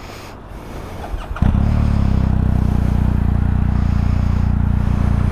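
Motorcycle engine starting about a second and a half in, then running steadily at idle, loud and close.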